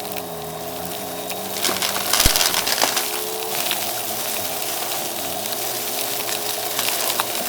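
Vacuum cleaner running steadily with its brushroll crunching and crackling through dry debris, loudest in a burst about two seconds in.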